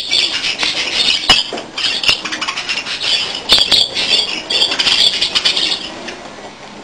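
A flock of budgerigars chattering and warbling, with scattered sharp clicks among it; the chatter drops away about six seconds in.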